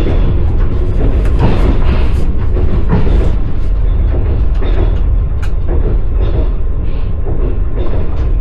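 Passenger train wheels clattering over the rails, heard from inside the carriage: a steady low rumble with irregular clacks and knocks.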